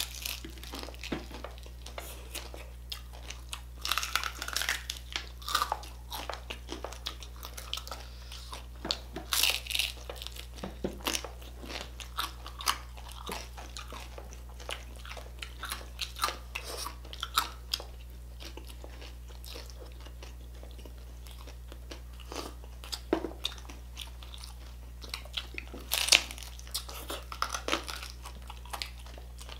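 Close-up eating of crispy pata, deep-fried pork knuckle: crackling skin crunched between the teeth and chewed, in scattered crisp crunches. The crunching comes in louder clusters a few seconds in, about nine seconds in and near the end.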